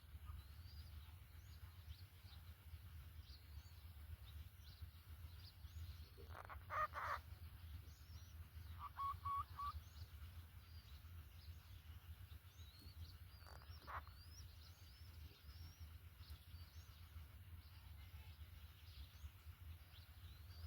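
Faint outdoor ambience: a steady low rumble with distant small birds chirping throughout. A few louder calls come about seven and fourteen seconds in, and a quick run of four short notes comes between them.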